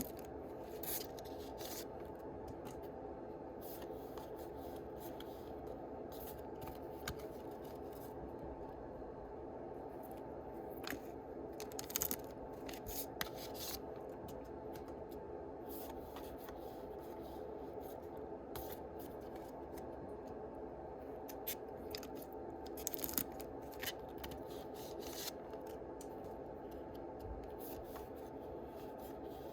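Yu-Gi-Oh trading cards and their foil booster-pack wrappers being handled: scattered short crisp rustles and clicks as cards slide and wrappers crinkle, loudest about twelve seconds in and again near twenty-three seconds. A steady low hum runs beneath.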